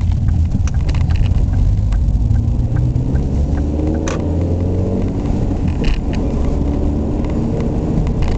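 Ford Mondeo Estate's 1.6-litre four-cylinder petrol engine running steadily while driving, over a deep road rumble, with one sharp click about four seconds in. The owner finds this engine noisy and reluctant to rev.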